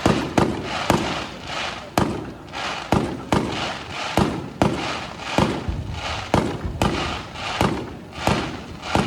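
A fireworks display with bursts going off in quick succession, roughly two sharp bangs a second at uneven intervals, and crackling between the bangs.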